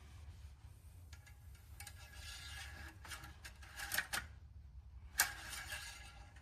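Scraping and rubbing of the engine oil dipstick being handled to check the oil level, with a sharp click about four seconds in and a louder one a little after five seconds.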